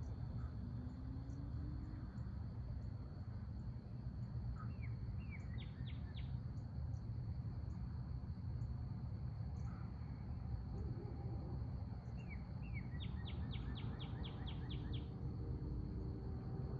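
Outdoor ambience: a steady low rumble and a steady high insect drone, with a songbird singing twice, each time a quick run of falling whistled notes, about five seconds in and again around thirteen seconds.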